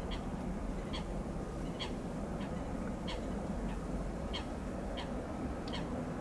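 A bird giving short, harsh calls, about one every half second to a second, over a low steady rumble.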